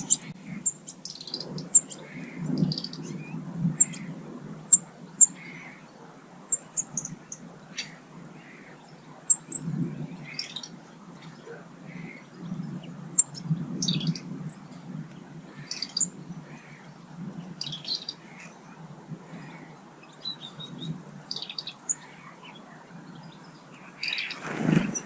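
Small garden birds calling: short, high chirps scattered irregularly throughout, over a steady low background rumble. Near the end comes one louder, harsher burst.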